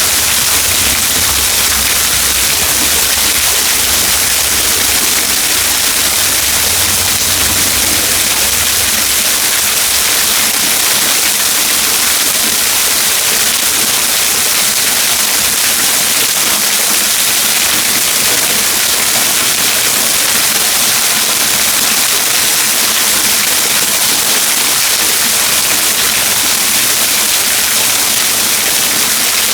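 Trettstein waterfall rushing: a loud, steady hiss of falling water, with a low rumble underneath for the first several seconds.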